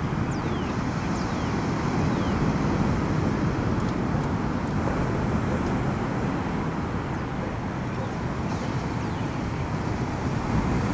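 Steady rush of ocean surf and wind on the microphone at the beach, with a few faint, short, falling bird calls.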